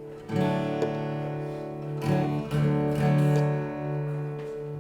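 Acoustic guitar strummed, a few chords left ringing between strokes.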